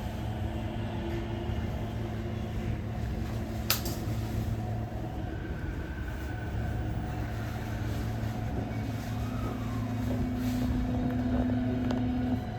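Running sound of a Tokyo Metro 16000 series electric train: a steady low rumble with motor and inverter tones, one of which rises slowly in the second half. There is a single sharp click about four seconds in.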